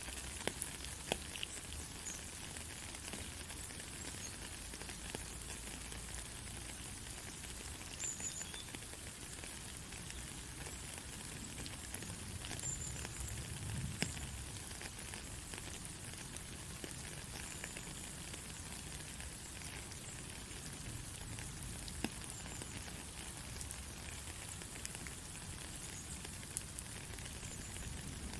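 Steady rain falling, an even hiss with scattered louder drops ticking and clicking throughout.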